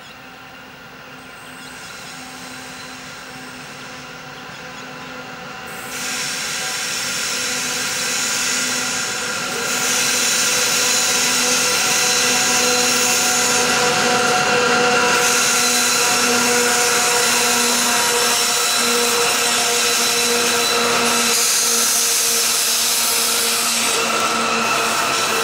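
Three XRN-class diesel locomotives hauling a loaded coal train approach working hard and grow steadily louder, passing about six to ten seconds in. The loaded coal hoppers then roll past with a steady rumble of wheels on rail and a held, high wheel squeal on the curve.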